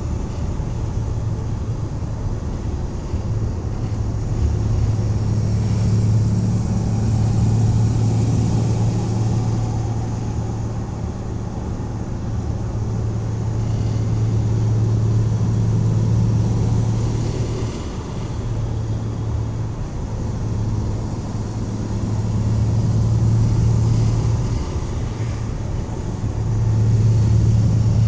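1984 Dodge van's engine droning steadily while driving, with road noise. The level swells and eases several times.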